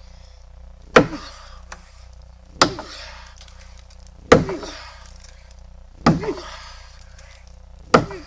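Axe chopping into a tree branch: five heavy blows, evenly spaced about every second and a half to two seconds, each a sharp strike with a brief ringing after it.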